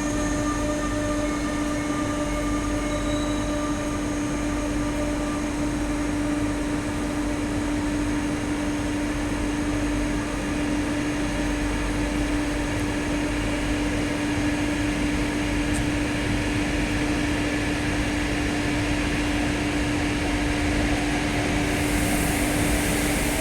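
Electric trains at a station: a steady electrical hum throughout, with fainter motor tones dying away over the first few seconds as a train pulls out. A high hiss comes in near the end.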